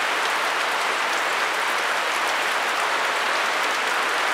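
Heavy rain falling in a steady downpour, a dense, even hiss with no let-up.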